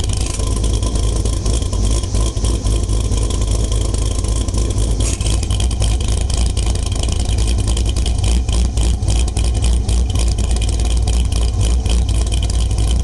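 V8 engine with a Katech Torquer camshaft idling through a B&B Fusion exhaust: a steady, deep exhaust rumble with a pulsing beat.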